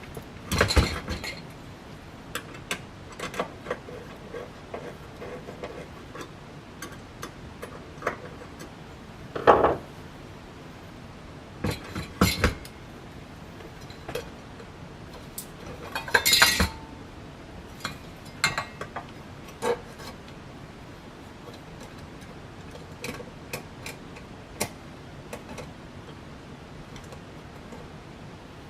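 Irregular clinks and clatters of small metal fan parts and screws being handled and fitted by hand during ceiling fan assembly, with a few louder knocks scattered through.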